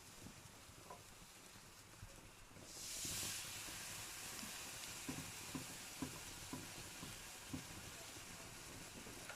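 Wood fire in a fireplace crackling with scattered pops; about three seconds in, a hiss swells up and carries on, with a handful of sharper pops following.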